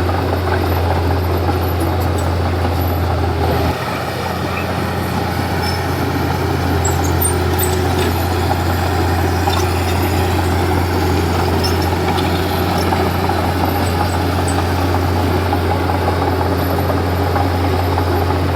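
Komatsu D31P bulldozer's diesel engine running steadily, its low note dropping and shifting a little about four seconds in, with scattered faint clicks over it.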